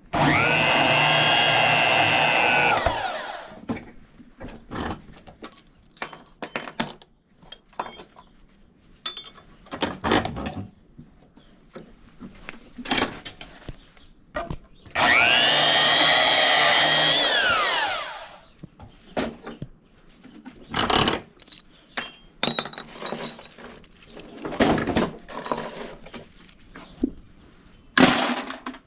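Bandsaw running twice for about three seconds each, cutting the ends off copper thermostat tubes, its pitch falling each time as the motor winds down. Between cuts, short metallic clinks and clatter of the copper and steel pieces being handled.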